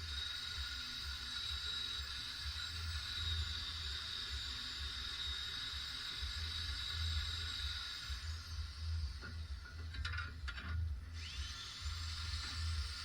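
Steady hiss, breaking off briefly about ten seconds in, over background music with a low pulsing beat.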